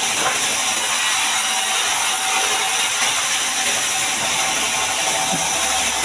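Sawmill band saw running through a mahogany log: a steady, even whir of blade and drive with a strong hiss, holding level throughout.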